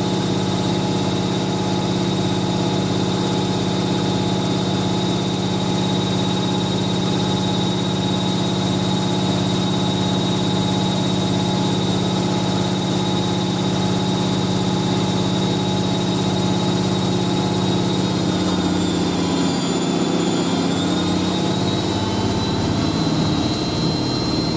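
Hoover A3060 Electronic 1100 washing machine in a fast spin, its motor giving a steady hum with a high whine above it. About three quarters of the way through, the tones shift and the whine edges up in pitch as the drum speeds up toward its 1100 rpm top spin.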